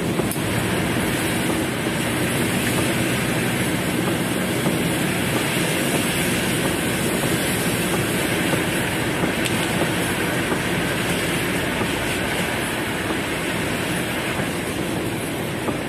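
Heavy rain drumming steadily on a car's roof and windows, heard from inside the cabin as a dense, even wash of noise.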